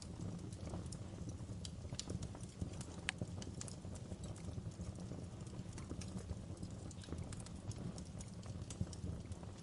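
Wood fire crackling in a fireplace: irregular sharp snaps and pops of burning logs over a steady low rumble of the flames, with a couple of louder pops about two and three seconds in.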